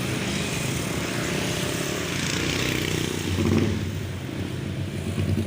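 A vehicle engine running steadily at low revs, growing a little louder about three and a half seconds in, over background noise.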